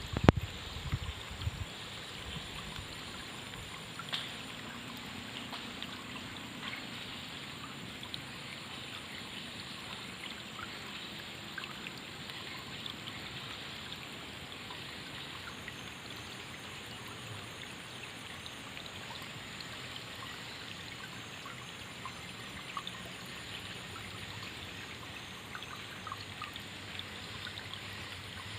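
Water flowing and trickling steadily, with scattered small splashes. A few low thumps come in the first second or so.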